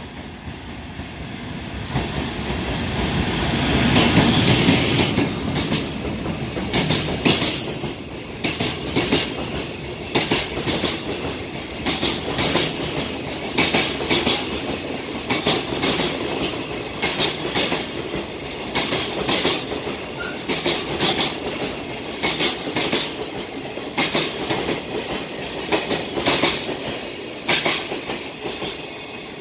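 A JR Freight EF510 electric locomotive runs through at speed hauling a container freight train. The sound swells to its loudest about four seconds in as the locomotive passes, then the container wagons' wheels clatter over the rail joints in a steady repeating rhythm.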